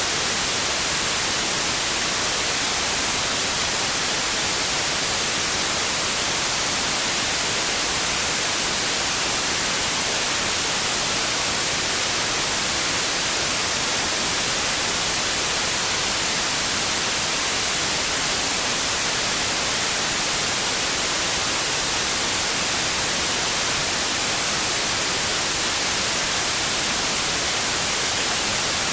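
Steady white noise: an even, unchanging hiss with its energy weighted toward the high end.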